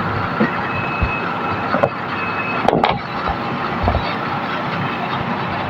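Mini split air conditioner's outdoor unit running steadily, its newly replaced compressor and condenser fan under test while the R22 refrigerant charge is topped up, with a few sharp clicks over the running noise.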